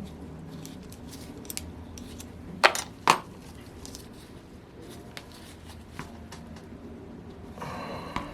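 Small metal tools and engine parts clicking and clinking on a workbench during hand disassembly of a model glow engine, with two sharp clinks close together about two and a half to three seconds in.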